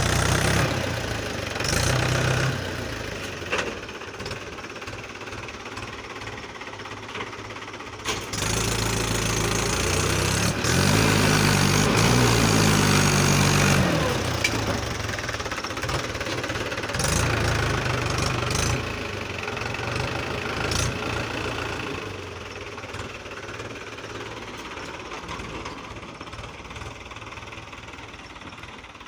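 Tractor engine running under load with a knocking note. It grows louder for several seconds in the middle, then settles back to a quieter, steadier run.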